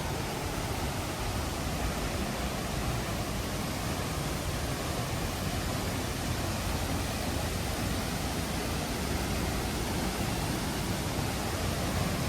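Tegenungan Waterfall's 15-meter drop, water falling into the pool below: a steady, unbroken rushing noise.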